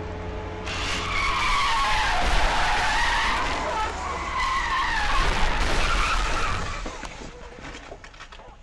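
Car tyres squealing in a long skid of about six seconds, the pitch wavering up and down, starting about a second in and dying away near the end, over a steady low engine and road hum.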